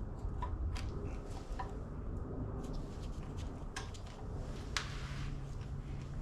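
Scattered light metallic clicks and taps of hand tools and engine parts being handled, about six in all with the sharpest about three-quarters of the way through, over a steady low hum.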